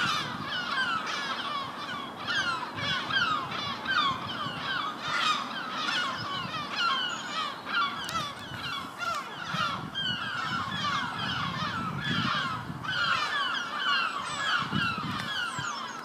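Many birds calling together: a dense, unbroken stream of short, falling notes.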